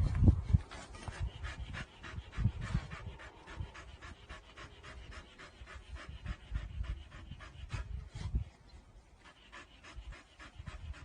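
A dog panting fast and steadily, about four breaths a second, with a short pause near the end. Low, irregular bumps run under it, loudest at the very start.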